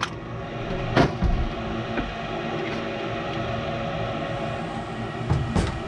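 Steady hum of running furnace machinery with a few faint steady tones in it, broken by a sharp knock about a second in and a short cluster of knocks near the end as parts and tools are handled.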